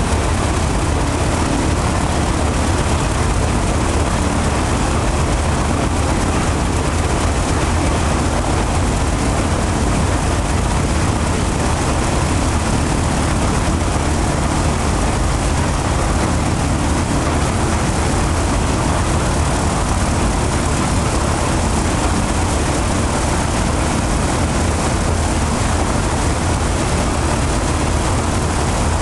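Ilyushin Il-14's left engine, a Shvetsov ASh-82T radial piston engine, running on the ground during an engine run-up, with its propeller turning. The loud, heavy drone holds steady, with no change in speed.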